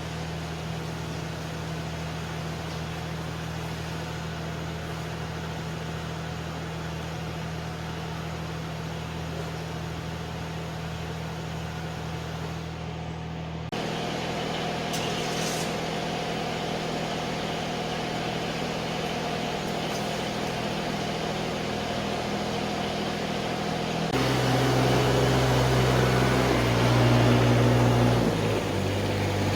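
The small engine of a Yanmar VP80DX rice transplanter running steadily, heard in segments joined by abrupt cuts. In the last few seconds it runs louder and its pitch shifts.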